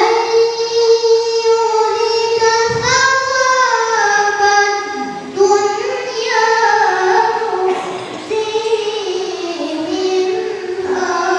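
A boy's voice in melodic Quran recitation (tilawah), holding long ornamented notes whose pitch glides up and down, with short breaks between phrases.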